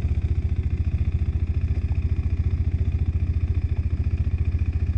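KTM 390 Adventure's single-cylinder engine running steadily at low revs, with a rapid, even pulse that neither rises nor falls.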